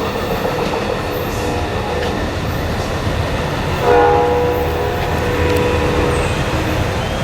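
An Amtrak passenger train's horn sounds a chord for a grade crossing over the rumble of the train. A louder horn blast starts about four seconds in and lasts a couple of seconds.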